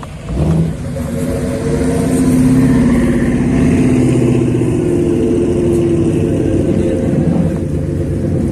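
Large-displacement motorcycle engines running, with a sharp rev about half a second in and then a steady engine drone that swells and holds.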